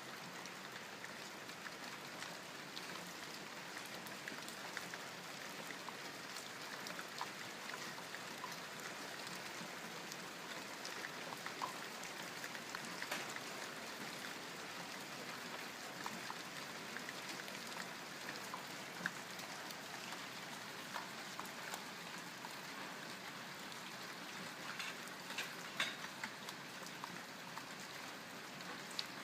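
Steady rain falling, a continuous patter with individual drops ticking louder here and there, a few close ones around 13 and 26 seconds in.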